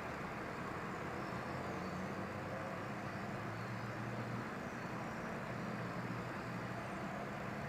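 Steady city street traffic with vehicle engines running, under a faint, continuous high chatter of many birds gathered on overhead wires.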